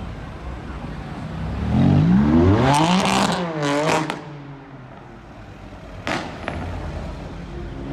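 A car engine revved hard as the car accelerates. Its note climbs for about a second and a half and then falls away, with exhaust crackle at the peak. A single sharp crack comes about six seconds in.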